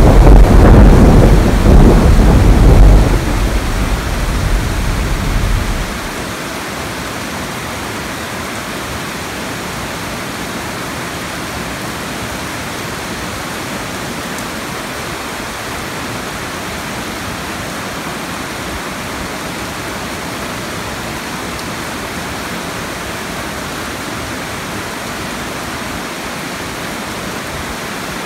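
Heavy rain falling steadily, an even hiss. It opens with a loud low rumble that eases about three seconds in and dies away about six seconds in.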